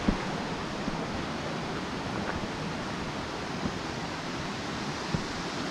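A waterfall rushing: a steady, even roar of falling water, with a few faint knocks.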